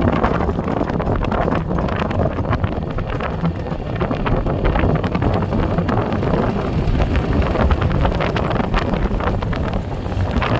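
Wind buffeting the microphone in a steady, rumbling gust, with a four-wheeler's engine running underneath while it plows snow.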